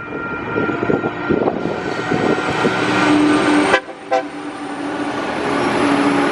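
TasRail TR-class diesel locomotives approaching, engine noise building, with the locomotive horn sounding through the second half. The sound drops away briefly about four seconds in.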